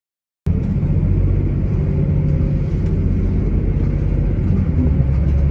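Loud, steady low rumble that cuts in abruptly about half a second in.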